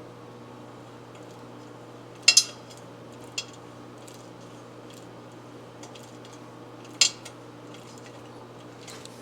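Hand tools clinking against metal during work on a motorcycle cylinder: a sharp double clink a little over two seconds in, a lighter one a second later, and another near seven seconds, over a steady low hum.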